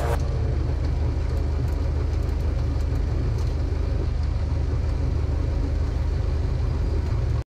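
Cessna 152's four-cylinder Lycoming O-235 engine and propeller running at a steady pitch, heard as an even low drone inside the cockpit. It cuts off abruptly near the end.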